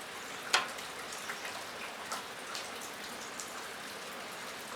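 Rain falling on a metal roof: a steady hiss with many scattered drop ticks, and one sharp click about half a second in.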